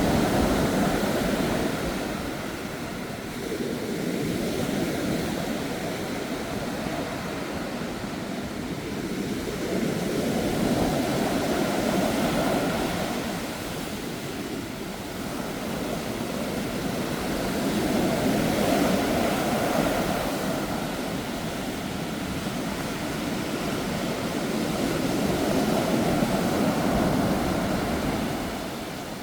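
Sea waves surging and breaking on the shore in a continuous rush that swells and falls back about every seven or eight seconds, driven by typhoon-strength wind.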